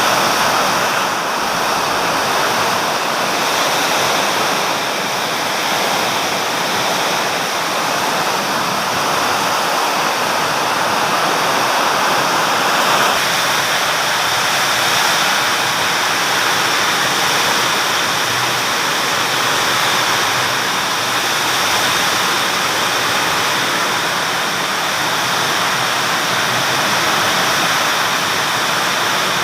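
Heavy rain from a summer thunderstorm pouring down in a steady, loud rush.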